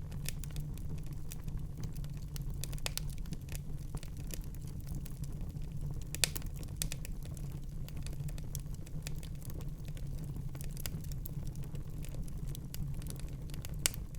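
Wood fire crackling in a fireplace: a steady low rumble of burning with frequent small snaps, and two louder pops, one about six seconds in and one near the end.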